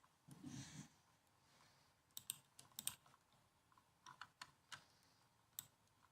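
Laptop keyboard keys being typed: a short, uneven run of about a dozen crisp keystroke clicks in the second half, after a soft rustle near the start.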